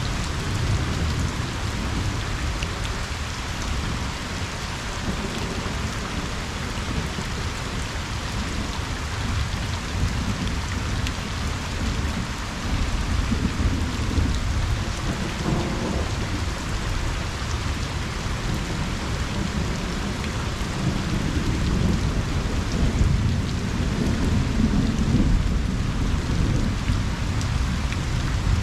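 Steady rain pattering on a pond and its surroundings, with distant thunder rumbling low underneath that grows louder in the last few seconds.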